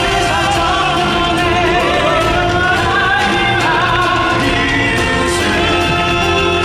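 Live pop song performance: male voices singing a melodic line, with some blended ensemble harmony, over band accompaniment.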